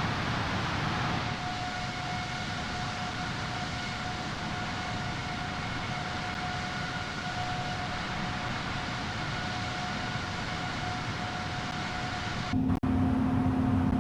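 Air Greenland Airbus A330-900neo's Rolls-Royce Trent 7000 engines running: a steady rushing noise with a steady high whine over it. Near the end a sharp click comes, the hiss drops away, and a deeper, louder hum takes over.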